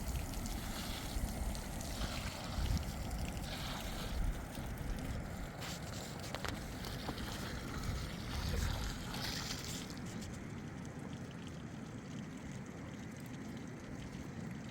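Wind buffeting the microphone in uneven low rumbling gusts over an outdoor hiss, with a few faint knocks near the middle; the hiss thins about ten seconds in.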